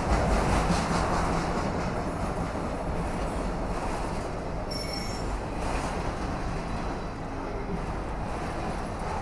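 CSX freight train of autorack cars rolling steadily past a grade crossing, with the continuous rumble of wheels on rail. A brief high-pitched wheel squeal comes about five seconds in.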